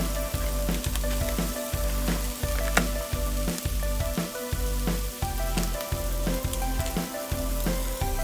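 Food frying in a hot pan, a steady sizzle, with background music that has a regular beat.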